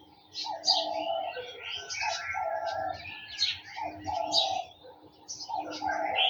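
Garden birds chirping and trilling over one another, with a lower call repeated about every second or two.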